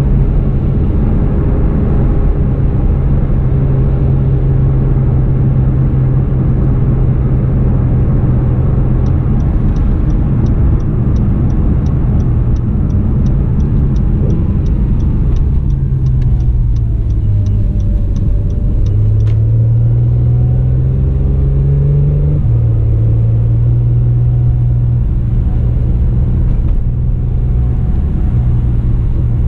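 2017 Acura NSX's twin-turbo V6 running under way, heard inside the cabin: a steady low engine note that dips and climbs again around the middle, then steps to a new pitch. A fast, regular ticking, about three a second, runs for roughly ten seconds in the middle.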